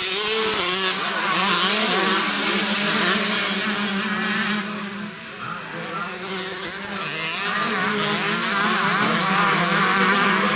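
Several 125cc motocross bikes racing, their engines revving up and down over one another, dipping briefly about halfway through before building again.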